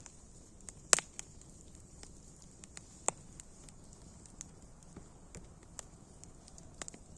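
Wood fire crackling: irregular sharp pops and snaps over a faint steady hiss, the loudest pop about a second in and another a couple of seconds later.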